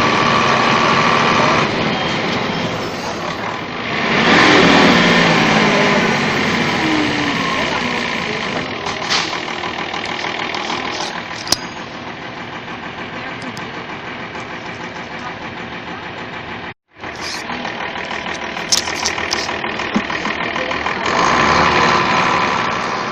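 Mercedes-Benz OF1721 bus engine running. It swells about four seconds in and falls in pitch over the next few seconds, then runs steadily at a lower level. It drops out for an instant near 17 seconds and rises again near the end.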